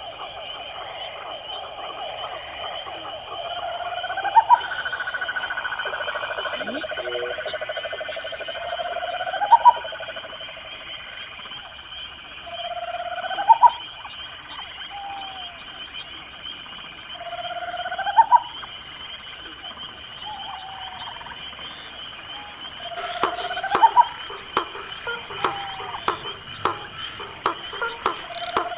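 Night chorus of crickets trilling steadily. A short upward-sweeping call from a frog or night bird repeats about every four to five seconds, and a run of faint clicks comes near the end.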